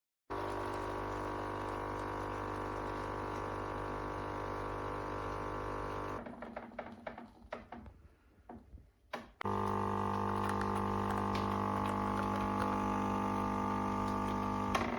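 Melitta Latticia OT fully automatic coffee machine running its pump with a steady hum and running liquid. It stops about six seconds in for a few seconds of small clicks and drips, then starts again about nine seconds in and cuts off suddenly at the end.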